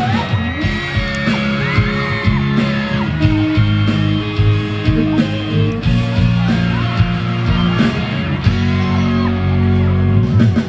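Live band playing a song's instrumental intro, steady guitar and bass chords, over a crowd cheering and screaming throughout.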